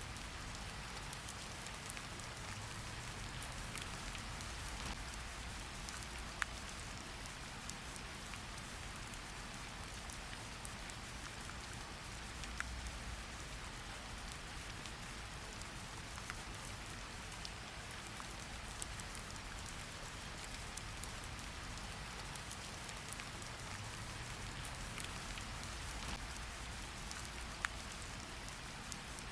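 Steady rain falling on a surface, an even hiss with a few sharp ticks standing out now and then.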